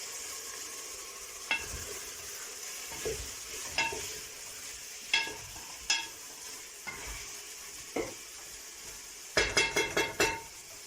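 Minced and bone-in meat sizzling in a pot while it is stirred with a metal spoon. The spoon clinks against the pot now and then, with a quick run of clinks near the end.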